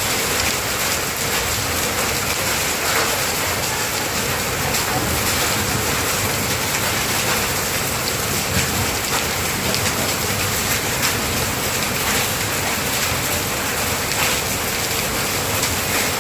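Hailstones and rain hitting surfaces in a heavy hailstorm: a steady, dense hiss dotted throughout with sharp ticks of individual strikes.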